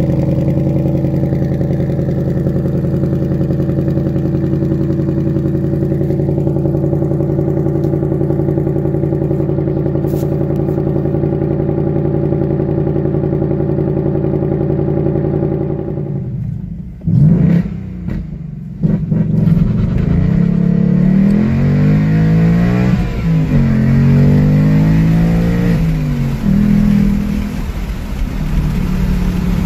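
2019 Ford Mustang Bullitt's 5.0-litre V8 idling steadily at the exhaust tips. About halfway through it cuts to the engine heard from inside the cabin, accelerating hard, its pitch climbing and dropping back at each gear change, up into third gear.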